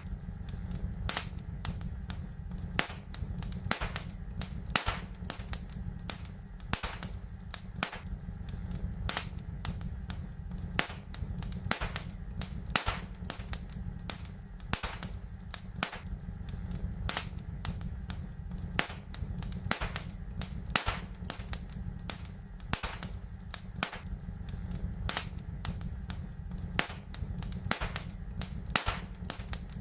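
Wood fire in a fireplace crackling: irregular sharp pops and snaps, a couple a second, over a steady low rumble.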